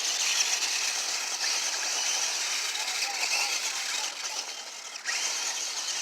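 Remote-control monster trucks running, a steady high whirring hiss of small electric motors and tyres on dirt. It dips briefly and surges back near the end, with faint voices in the background.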